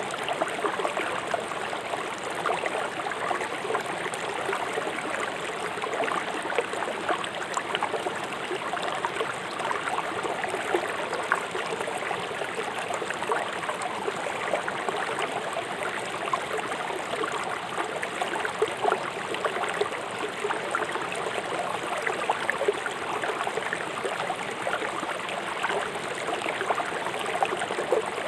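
A river flowing swiftly over stones, a steady rush of water with small splashes and gurgles throughout.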